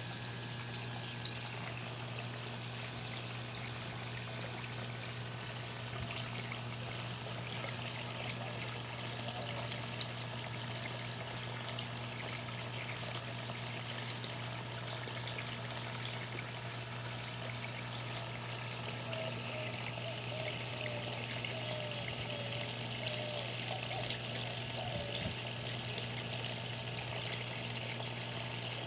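Steady low electric buzz from the motor of a pond's bubblers (aerator pump), running unchanged, over the trickle and splash of water.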